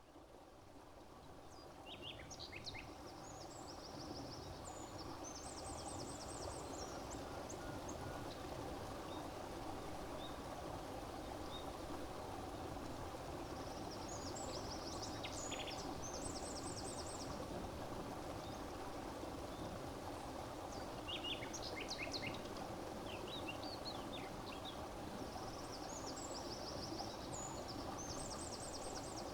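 Songbirds singing in short, high, rapidly repeated trilled phrases that come in four spells, a few seconds apart, over a steady low outdoor background hiss. The whole ambience fades in over the first few seconds.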